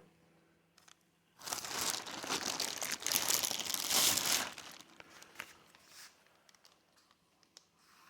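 Packaging crinkling and rustling for about three seconds as it is handled, followed by a few light clicks and knocks.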